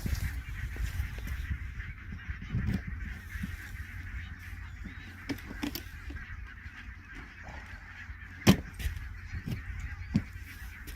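A large flock of geese calling together, a continuous blended honking chatter, with a low rumble of wind on the microphone. A single sharp click stands out about three-quarters of the way through.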